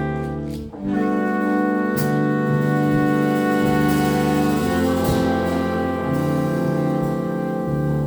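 Live jazz octet with saxophones, trumpet and trombone playing sustained ensemble chords from a West Coast–style arrangement. There is a brief break and chord change about a second in, and another change about halfway through.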